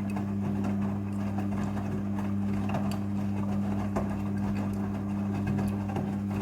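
Midea front-loading washing machine running its rinse cycle: a steady motor hum with a few faint scattered clicks.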